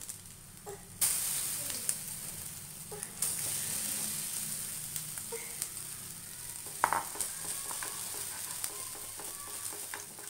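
Potato batter sizzling in hot oil in a nonstick frying pan. The sizzle jumps louder suddenly about a second in and again about three seconds in, then holds steady.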